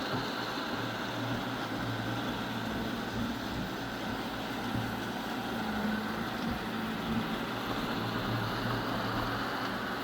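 Eufy robot vacuum running, its motor and brushes giving a steady whir with a low hum.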